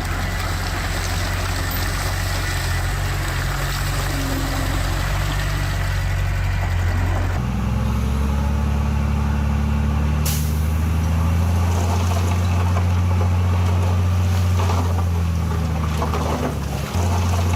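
Heavy diesel engines of a dump truck and bulldozer running steadily, the low engine note changing about seven seconds in. A short, sharp air hiss comes about ten seconds in.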